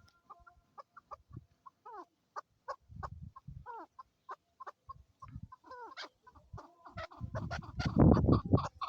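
Chukar partridges calling: a run of short clucking notes with a few quick downward-sliding calls. Near the end comes a louder stretch of low rustling and knocking close to the microphone.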